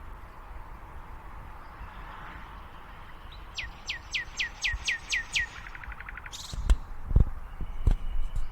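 A songbird sings a run of about eight quick whistled notes, each falling sharply in pitch, then a fast trill. After that come a few dull low thumps, which are the loudest sounds.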